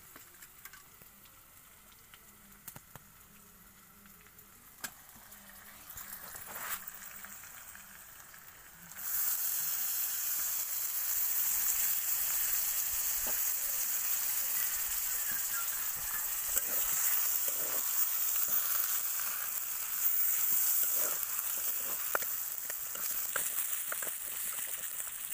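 Raw chicken pieces frying in hot oil in a steel kadhai. The first few seconds are quiet apart from a few light clicks. About a third of the way in, a loud sizzle starts suddenly and carries on steadily, with a metal spatula scraping and stirring in the pan.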